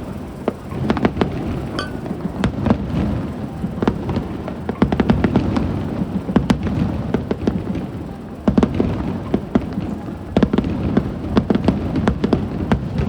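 Aerial fireworks display: shells bursting with low booms under dense, rapid crackling pops. The crackling grows thicker about eight and a half seconds in.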